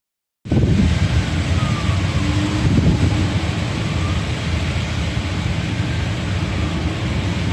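Steady city traffic noise with a low rumble, after a half-second dropout at the start; a few faint engine tones rise and fall through it.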